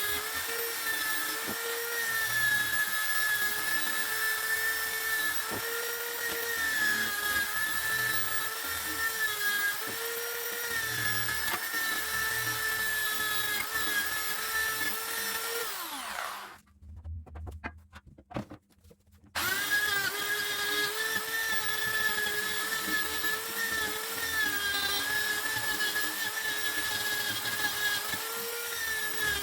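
Electric power tool motor running with a steady whine that wavers slightly as the load changes. About 16 seconds in it winds down and stops, with a few small clicks in the pause, and about three seconds later it starts up again.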